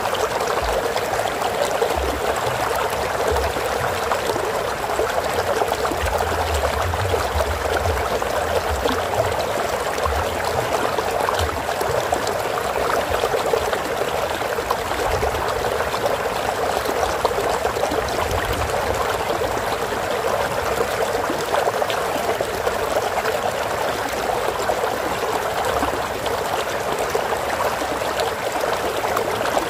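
A stream of running water, babbling and trickling over rocks, steady and unbroken.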